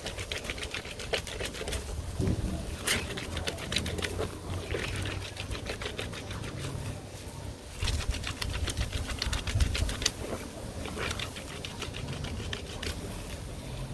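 Clothes being scrubbed by hand in soapy water, fabric rubbed hard against itself in quick rhythmic strokes with an occasional louder splash or slap.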